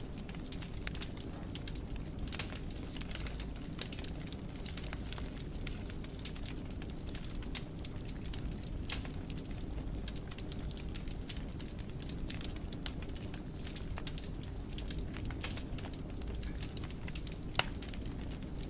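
Wood fire burning in a fireplace: a steady low rumble with frequent small crackles and occasional sharper pops, the loudest a little before the end.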